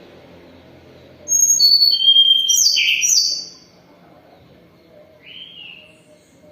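Tledekan gunung singing: a phrase of high, thin whistled notes at stepped pitches lasting about two seconds, ending in two falling slurred notes, then one short note about two seconds later.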